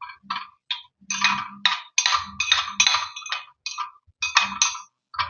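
About a dozen short, irregular scraping and clinking strokes of a utensil against small miniature cookware.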